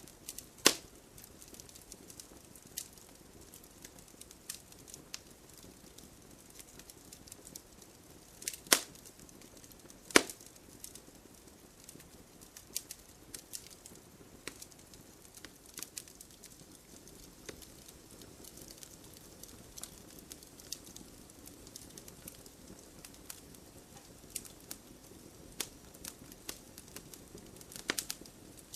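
Wood campfire crackling, with a steady scatter of small snaps and three sharp, loud pops: one just after the start and two close together about a third of the way in.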